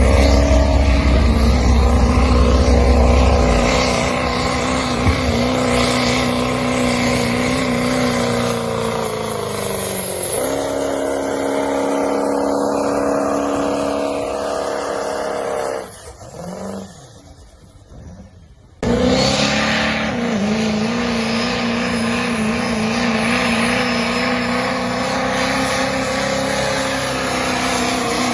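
Diesel pulling truck engines run at full throttle in a steady high-revving note, with a heavy low rumble in the first few seconds. The note sags about ten seconds in and winds down and fades around sixteen seconds. A second full-throttle run then cuts in abruptly near nineteen seconds.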